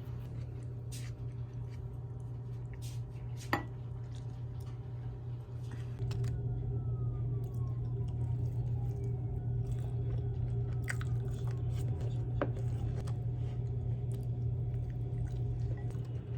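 Close-up eating sounds: chewing with scattered crunches and clicks, and one sharp click a few seconds in, over a steady low hum.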